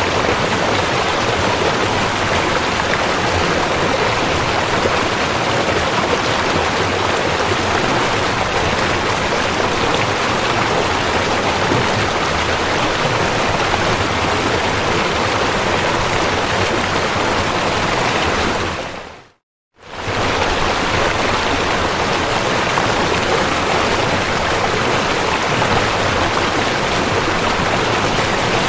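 Steady rushing of a river's flowing water. About two-thirds of the way through it fades out to a moment of silence and fades back in, as where one loop of the recording joins the next.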